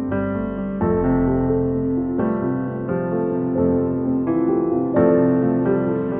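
Background music: gentle piano playing chords and a melody, the notes changing every half second or so.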